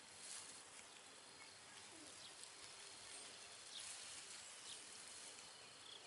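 Quiet outdoor ambience with a few faint, short bird chirps.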